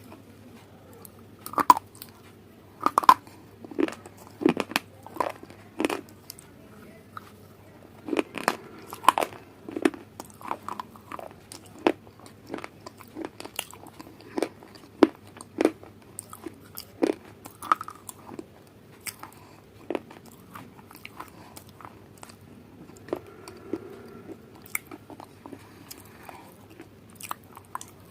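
Close-miked eating of crunchy food: bites and chewing, a string of sharp crunches at uneven intervals, some much louder than others.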